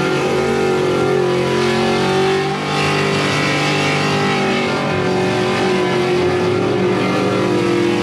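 Truck engine held at high, steady revs, with a brief dip in revs about two and a half seconds in.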